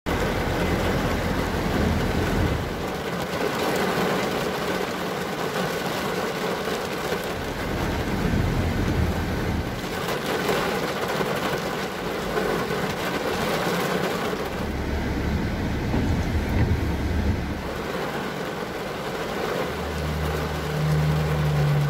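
Rain falling on a car's windscreen and roof, heard from inside the car, with a low engine rumble that comes and goes. A steady low hum joins in near the end.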